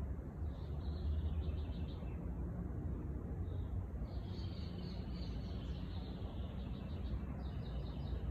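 A songbird singing in phrases of rapid high notes, with a short phrase, a single brief note, then a longer phrase in the middle and another short one near the end, over a steady low rumble.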